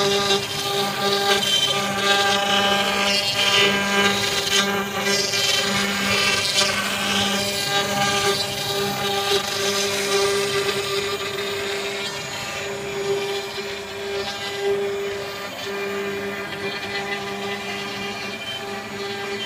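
Spindle of a CNC-S0609S engraving and milling router running with a steady whine while the machine cuts, over a rough cutting noise that is stronger in the first half and eases a little later on.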